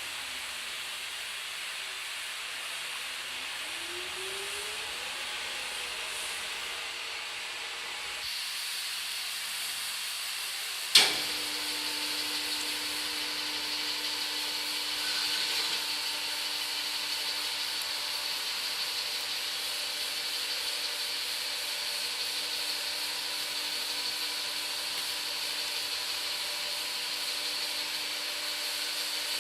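Bode 2000 kg welding positioner running under power: a steady motor hiss, with a faint whine that sinks and then climbs in pitch over the first few seconds. A single sharp clack comes about 11 seconds in, and after it a steady hum holds.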